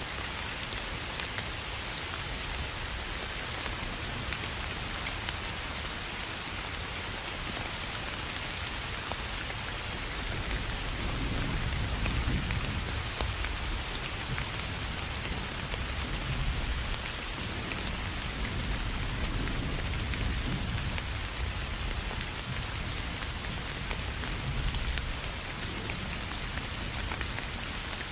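Steady soft rain falling on grass and rice paddies, an even dense hiss. Low rumbles of distant thunder swell and fade several times in the second half.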